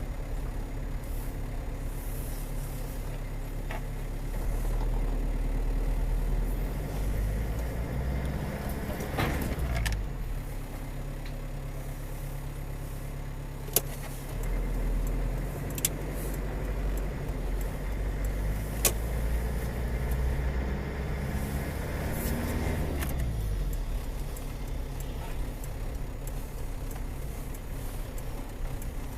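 Car on the road heard from a dashcam: steady low engine and road rumble, with another vehicle passing close by about a third of the way in and again near three-quarters of the way through. A few short, sharp clicks or knocks break in midway.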